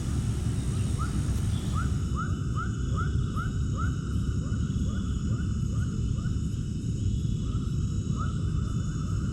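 An animal calling in a quick series of short rising chirps, about two to three a second, over a loud, steady low rumble.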